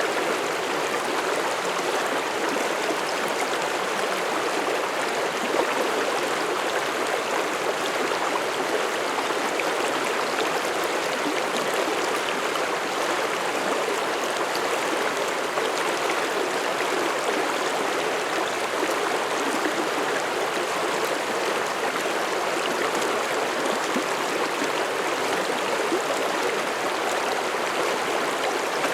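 Mountain stream rushing and babbling over rocks, a steady, even flow of water.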